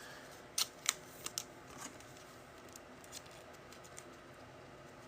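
Trading cards being handled on a table: a few light clicks and taps in the first two seconds, then only faint handling ticks.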